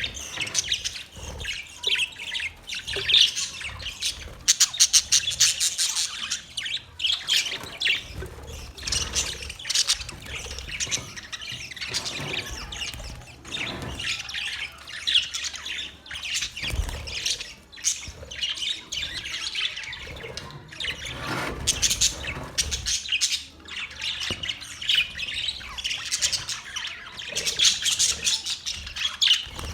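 A colony of budgerigars chirping together: many high calls overlapping without a break, swelling into louder spells now and then.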